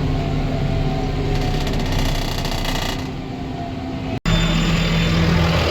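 Tractor engine running steadily, with a rattling clatter in the middle. The sound breaks off abruptly about four seconds in and resumes as a different steady engine note.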